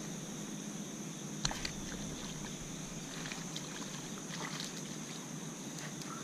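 Steady high insect chirring over faint outdoor hiss, with a sharp click about a second and a half in and a few light ticks after it.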